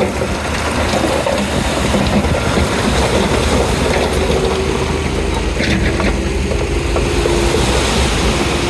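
Komatsu D31P bulldozer working, its diesel engine running steadily under a dense mechanical clatter, with a steady whine joining about halfway through.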